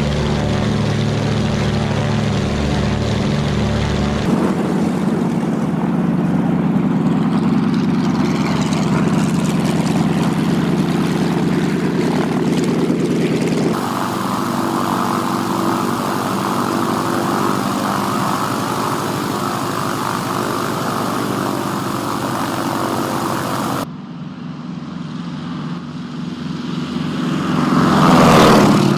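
Piston propeller aircraft engines running, in separate clips that change abruptly about four, fourteen and twenty-four seconds in. Near the end an aircraft passes close by, swelling in loudness as its engine note drops in pitch.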